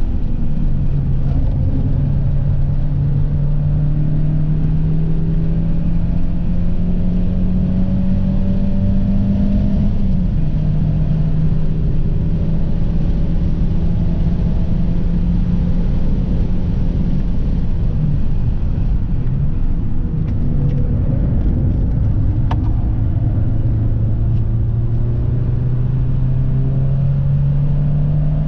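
Audi A3's engine and road noise heard from inside the cabin at racing speed. The engine note climbs slowly, drops sharply with an upshift about ten seconds in, drops again a little after halfway, and then climbs steadily toward the end.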